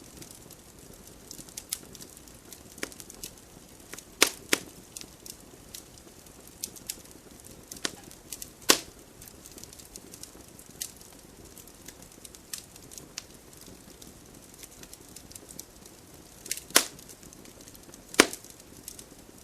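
Wood campfire burning: a faint steady hiss with scattered crackles and occasional sharp, loud pops, the biggest about four seconds in, at nine seconds, and twice near the end.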